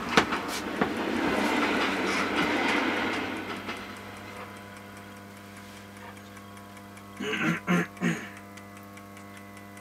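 Train rolling slowly over the rails, its wheels clicking over the rail joints, its running noise fading away by about four seconds to a low steady hum. About seven seconds in come three short, loud pitched blasts.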